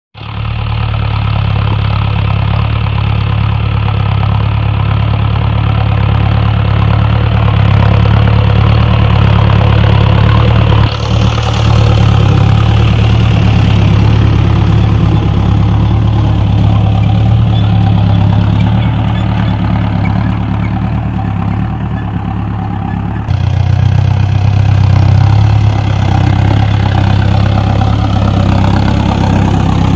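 Mahindra Novo 605 tractor's diesel engine running steadily and loudly. There is a brief dip about eleven seconds in, and the engine is quieter for a couple of seconds before it picks up again about two-thirds of the way through.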